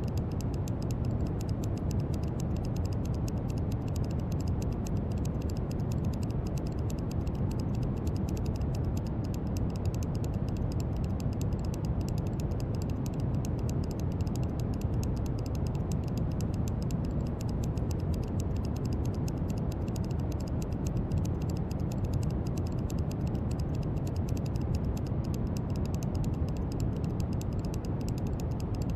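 Brown noise: a steady, deep rushing hiss, strongest in the low end, with no change in level.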